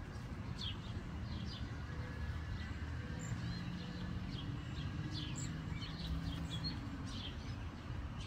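Songbirds chirping, many short high chirps scattered throughout, over a steady low background rumble.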